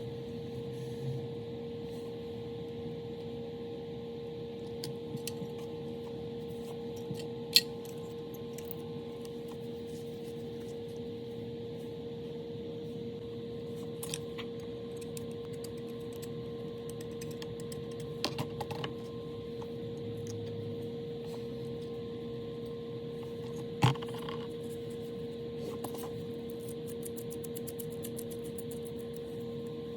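Small metal parts and tools clicking and clinking against each other a few times, over a steady electrical hum.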